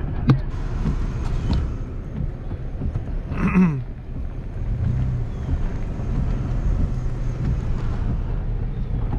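Car driving along: steady low rumble of engine and road noise heard from inside the cabin, with a sharp click just after the start and a short louder sound with a falling pitch about three and a half seconds in.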